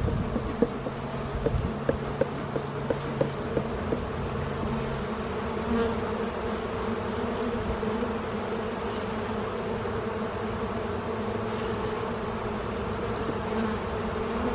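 Honey bees buzzing in a steady drone from an open hive. A run of light clicks and knocks comes in the first few seconds.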